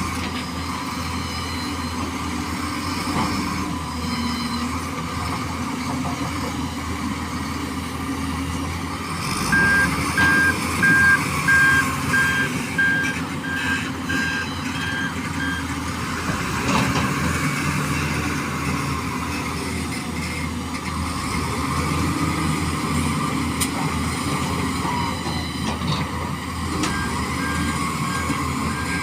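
Truck engine running steadily. About a third of the way in, its reversing alarm beeps about twice a second for some six seconds, then starts again near the end.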